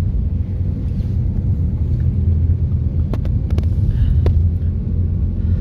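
Steady low road and engine rumble heard from inside a moving car climbing a winding road, with a few light clicks about three to four seconds in.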